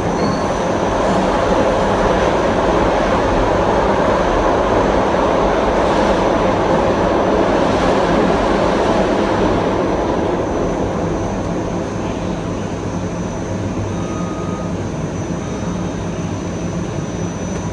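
Running noise inside a Kawasaki M9 electric multiple-unit train: a steady rumble of wheels on rail with a faint high whine, easing off and getting quieter after about ten seconds.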